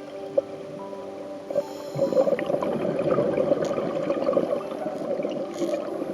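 Scuba diver breathing through a regulator underwater: a short inhale hiss, then exhaled bubbles gurgling and crackling from about two seconds in.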